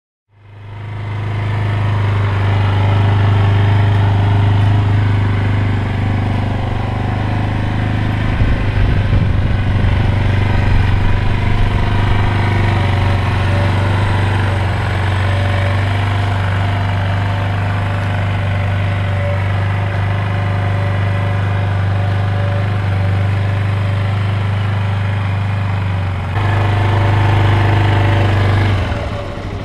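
Yamaha XT125X's single-cylinder four-stroke engine idling steadily at the exhaust, its pitch holding even throughout. It gets louder for a couple of seconds near the end.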